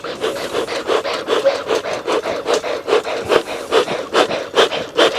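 Bee smoker's bellows pumped rapidly, a rhythmic rasping puff about three times a second, working the freshly lit sugarcane mulch up to hot coals.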